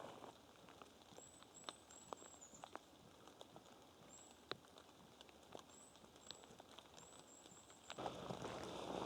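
Quiet forest with a small bird's very high, thin chirps in short runs and sparse light ticks of dripping rain; near the end, footsteps on the forest floor start up.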